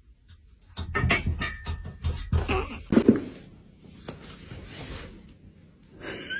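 A quick string of knocks and thuds, loudest in the first half, fading into a quieter rustling stretch.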